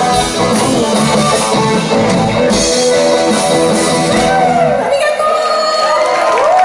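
Live rock band playing with drums, bass and guitar, the song ending about five seconds in, leaving a few voices calling out.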